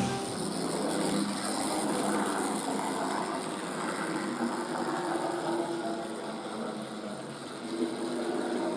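OO gauge model tank locomotive running on its track: a steady whirr from its small electric motor and wheels.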